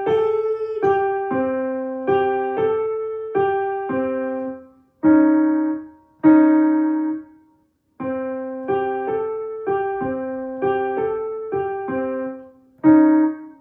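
Piano playing a simple single-note beginner melody, a repeated C, G, A, G figure, struck about two notes a second with each note dying away. There are two short breaks, about five seconds in and again near eight seconds.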